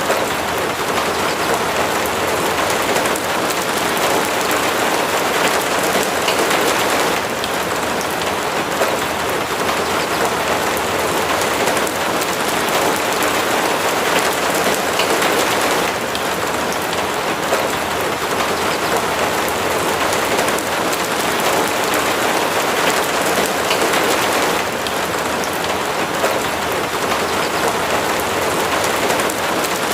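Steady heavy rain falling, a dense, even patter of drops with no breaks.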